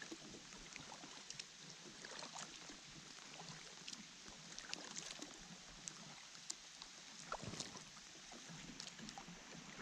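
Light rain on a lake around a kayak: a soft steady hiss with many small scattered drips and taps.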